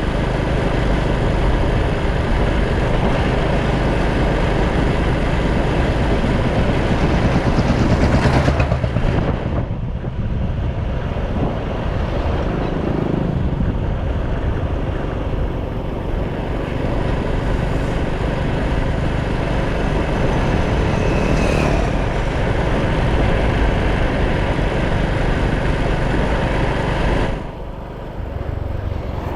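Motorcycle ride heard from a GoPro on the bike: the engine running steadily under heavy wind noise on the microphone. The sound swells briefly about eight seconds in and drops off sharply near the end.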